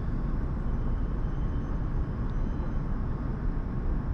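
JR East E5 Shinkansen running, a steady low rumble with a faint steady whine above it.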